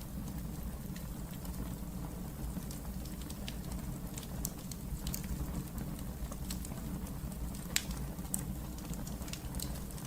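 Wood fire burning in a fireplace, crackling: a steady low rumble of flame with scattered sharp pops and snaps. One louder pop comes near the end.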